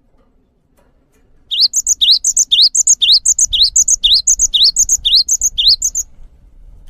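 A songbird repeating one short, high phrase about twice a second, some nine times: a quick rising whistle followed by higher chirps. It starts about one and a half seconds in and stops about a second before the end.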